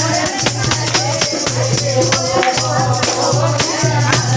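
Kirtan music: devotional singing over a low sustained tone, with hand percussion striking a steady rhythm.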